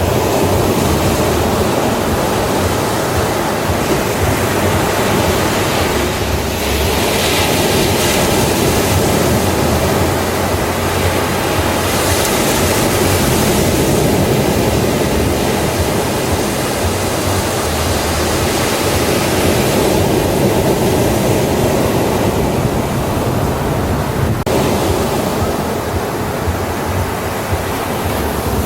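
Ocean waves breaking and washing on a beach: a continuous surf roar that swells and eases over several seconds.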